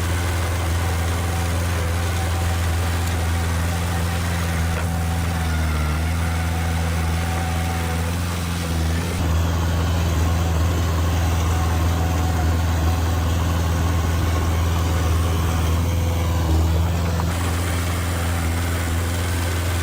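Diesel engine of a heavy earthmoving machine running steadily with a deep hum, growing a little louder for several seconds midway.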